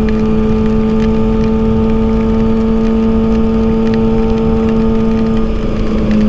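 Kawasaki ZX-6R 636 cc inline-four engine running at steady revs under way, under a constant rush of wind noise. The note wavers briefly near the end.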